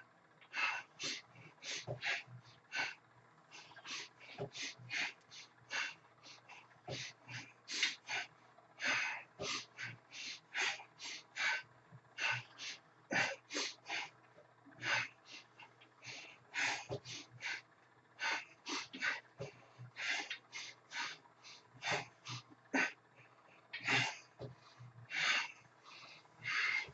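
A man breathing hard in short, forceful gasps and exhalations, about one to two a second, from the exertion of curling 75 pounds.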